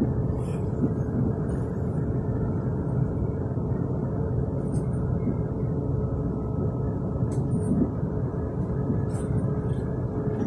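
Running noise of an electric passenger train heard from inside the carriage: a steady rumble with a faint steady hum and a few light clicks.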